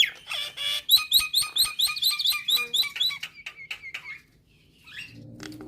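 Myna (jalak nias) singing a fast run of repeated sharp chirps, about six a second, for some four seconds, then falling quiet briefly before another call begins near the end.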